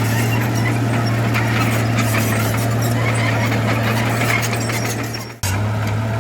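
Diesel engine of heavy earthmoving machinery running steadily with a low hum, with rattling and clicks over it. About five seconds in the sound dips away and jumps straight back.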